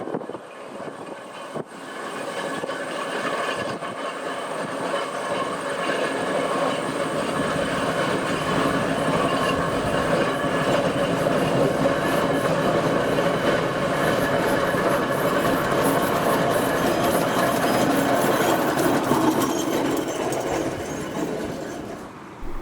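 Steam traction engine on the move, a steady mechanical clatter with train-like running sounds, growing louder over the first several seconds as it approaches, then cutting off suddenly near the end.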